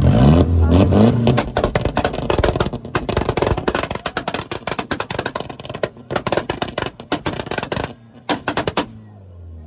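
Car engine revved up, then held on a two-step launch limiter, firing a rapid, loud barrage of exhaust pops and bangs for about seven seconds before cutting off suddenly near the end.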